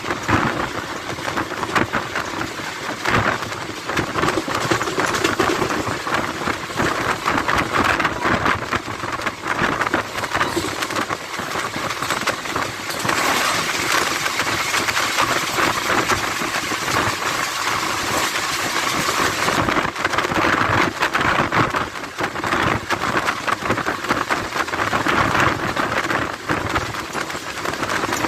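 Wind rush and the rumble and clatter of wheels on rail at the open door of an express train running at speed. About halfway through, an oncoming passenger train of stainless-steel coaches passes close on the next track for some six seconds in a loud, hissing rush that cuts off suddenly as its last coach goes by.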